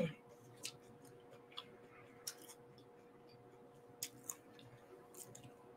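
Soft chewing of a mouthful of food: a handful of faint, short wet clicks and smacks at uneven intervals, over a faint steady hum.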